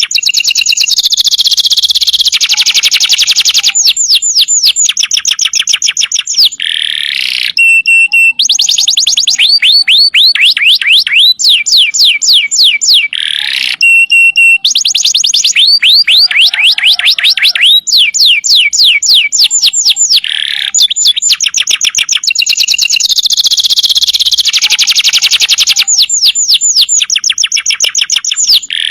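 Domestic canary singing loud, continuous song: long phrases of fast, high repeated notes and rolling trills, with brief pauses every few seconds.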